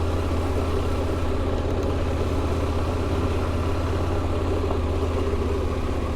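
KTM adventure motorcycle engine running at low, steady revs while the bike is ridden slowly through mud.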